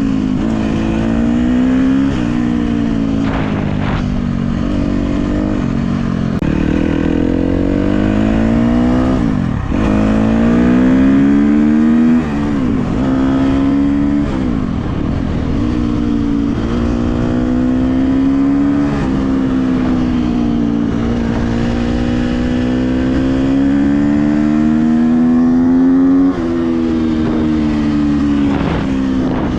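KTM 250 SX-F's single-cylinder four-stroke engine running under changing throttle. Its pitch climbs and falls over a few seconds at a time, with several sudden drops in revs.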